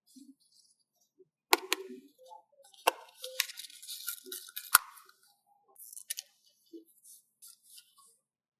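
Paper stickers being handled, peeled and pressed down: a few sharp taps and clicks with a crackling paper rustle, busiest from about three to five seconds in.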